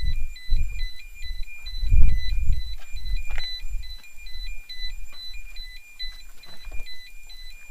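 An electronic warning beeper inside the stopped rally car, alternating between two tones about twice a second without a break. Dull thumps and rumbles from the cabin sound under it.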